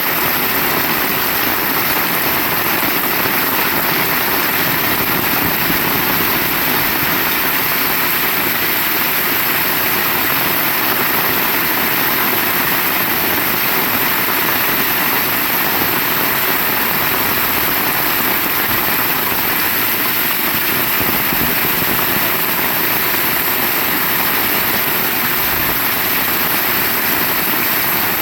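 Heavy rain pouring steadily, a dense, even noise that does not let up.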